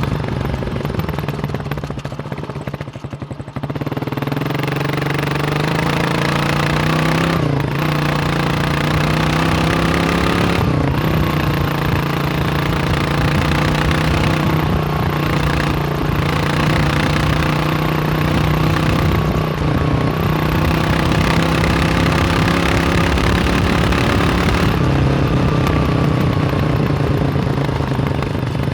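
Kawasaki KLR600 single-cylinder four-stroke engine running as the bike is ridden. It eases off in the first few seconds, picks up again about four seconds in and holds a fairly steady note, with brief dips around seven and eleven seconds in and an easing off near the end.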